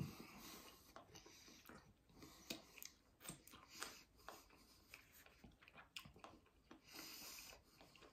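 Faint chewing of a chicken wing, with scattered small mouth clicks and breaths; a brief low thump right at the start.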